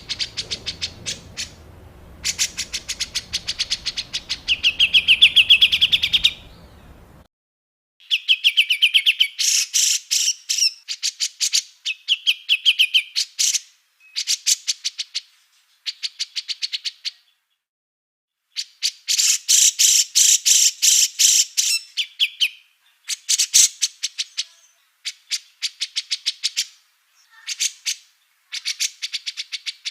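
Small songbird giving harsh, rapid-fire chattering bursts, the rough 'tembakan' call used in Indonesian bird-tutor recordings. Each burst is a fast string of ticks, some ending in a buzzy trill, and the bursts are repeated with short pauses between them. A low rumble underlies the first seven seconds and then cuts off.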